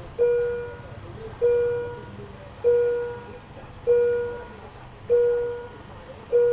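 Railway level-crossing warning bell ringing, six evenly spaced strikes about 1.2 seconds apart, each one a clear tone that dies away before the next: the signal that a train is approaching and the barrier is down.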